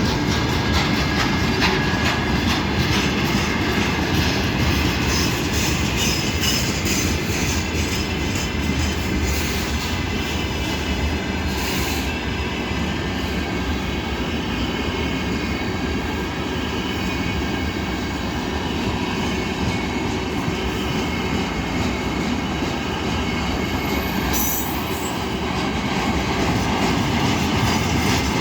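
Heavily loaded freight train rolling past: a steady rumble of wagons with wheels clicking over the rail joints in quick succession, and a thin wheel squeal over the top.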